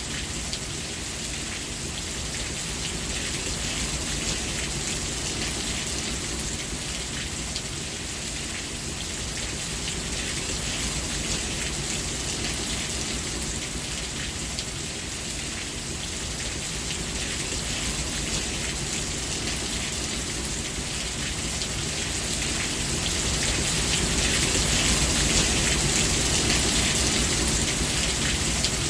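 Steady rain falling, an even hiss of drops hitting surfaces, swelling slightly louder near the end.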